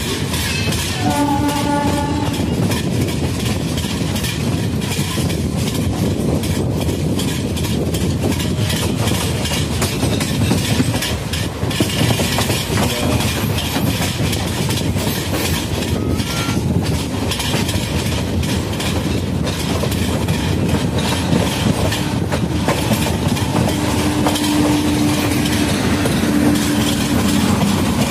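Passenger train running at speed, heard from the coach's open door: a steady rumble with the clickety-clack of wheels over rail joints. A horn sounds briefly about a second in, and a low steady tone comes in near the end.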